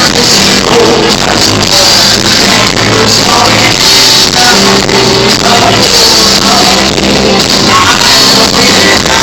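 Live band playing loud music, recorded through a phone's microphone that makes it sound harsh and distorted.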